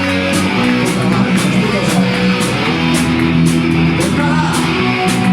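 Live rock band playing: guitar chords held and changing every second or two over bass, with drums keeping a steady beat of cymbal hits.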